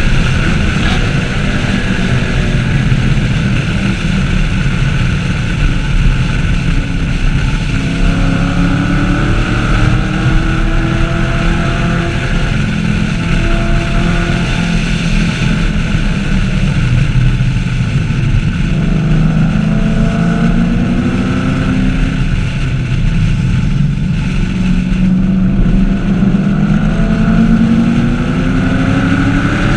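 Chevrolet Camaro SS 1LE's 6.2-litre V8 running hard at speed: the engine note climbs in pitch several times, dropping back between the climbs.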